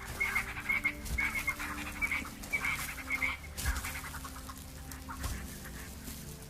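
Wild animal calls, quick clucking or chattering notes repeated in several bursts through the first three seconds or so, then fading to fainter calls.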